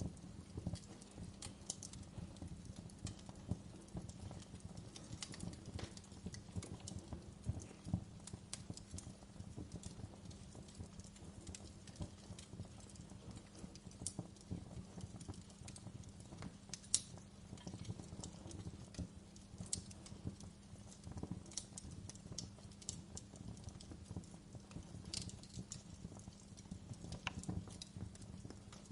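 Wood fire crackling in a fireplace: irregular snaps and pops, a few louder than the rest, over a low steady background.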